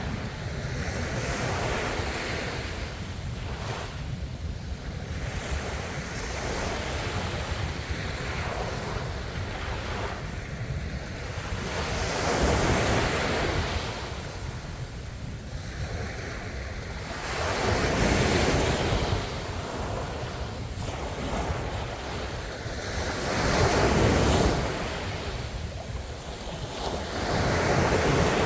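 Ocean waves breaking and washing on the shore, swelling louder every five or six seconds, with a steady low wind rumble on the microphone.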